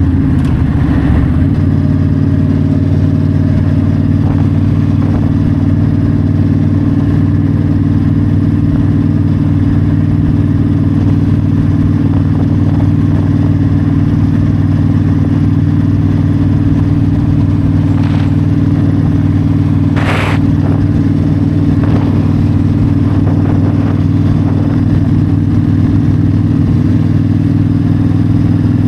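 Yamaha V-Star 1300 V-twin engine running at a steady cruising speed on the open road, with a brief hiss about two-thirds of the way through.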